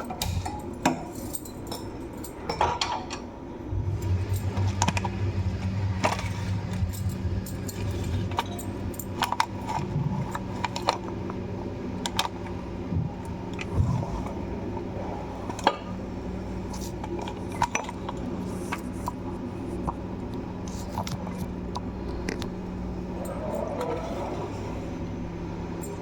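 Metal cookware and utensils clinking and clattering as a pan is handled, in scattered sharp knocks. A steady low appliance hum starts about four seconds in.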